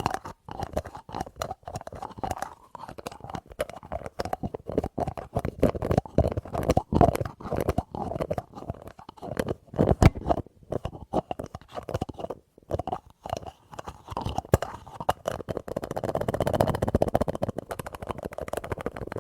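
Fast, irregular fingertip tapping on a small object, with a few sharper knocks; about three-quarters of the way through, the taps blur into a denser, continuous rubbing or scratching sound.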